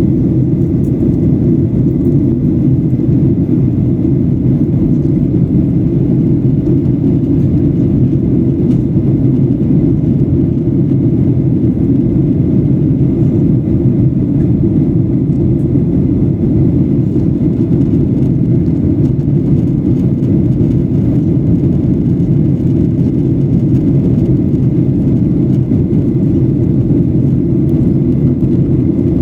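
Steady low cabin drone of a Boeing 737-800 in flight, from engine and airflow noise heard inside the cabin, with no change in level or pitch.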